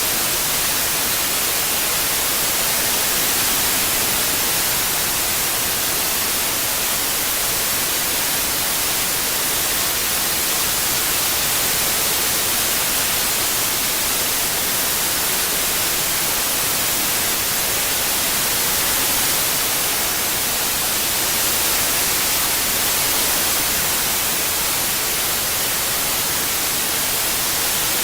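Continuous white noise processed as 8D surround audio: a steady, even hiss strongest in the high frequencies, with only slight slow swells in level.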